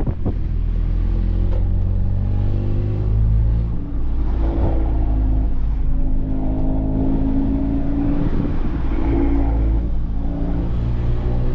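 Tuned Volkswagen Golf R's turbocharged four-cylinder engine running under way, a steady low rumble whose pitch climbs in the middle as the car accelerates.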